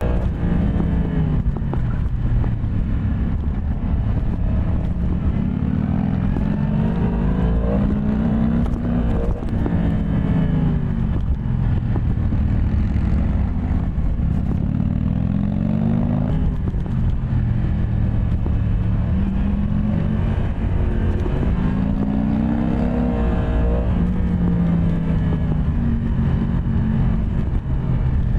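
Yamaha MT-10 SP's crossplane inline-four engine pulling up through the revs and dropping back several times as the rider accelerates and shifts, over a steady low rumble.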